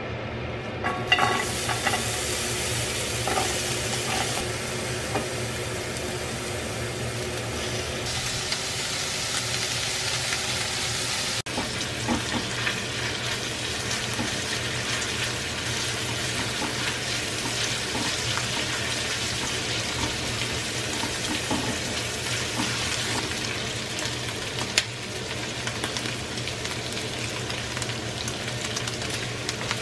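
Smoked duck and chopped onion sizzling as they fry in a hot frying pan; the sizzle starts about a second in as the onion goes in. A silicone spatula stirs the mix, with scattered small scrapes and taps against the pan.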